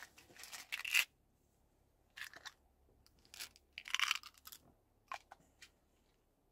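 Rustling at a leather jacket, then pills rattled from a plastic prescription bottle into the mouth, loudest about four seconds in, followed by a few crunches as they are chewed.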